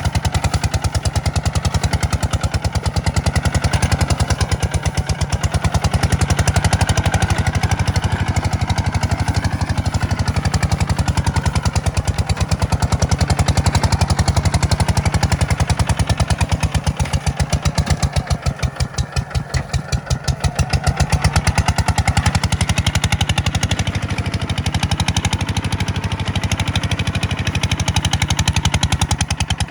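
Kubota farm tractor's diesel engine running steadily while ploughing, dipping in level briefly a little past halfway before picking up again.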